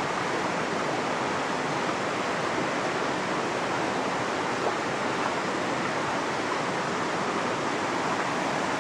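Shallow creek water rushing over rocks, a steady, even sound.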